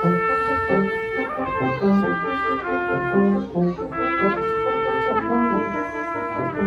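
Brass quartet playing, several parts moving together in short, changing notes.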